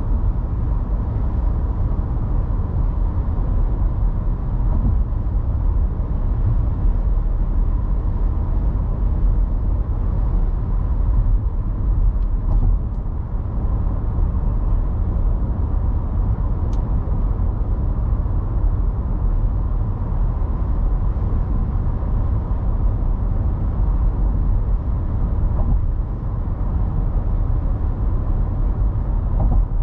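Car driving at a steady pace: continuous low rumble of tyres on the road and engine, with no sharp events.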